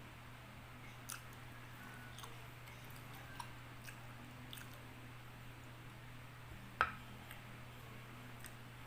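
Person chewing pineapple: scattered faint wet clicks of chewing, about one a second, over a steady low hum, with one sharper click shortly before the end.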